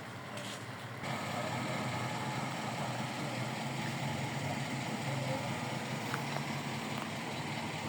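An engine running steadily at idle, a low drone that gets louder about a second in.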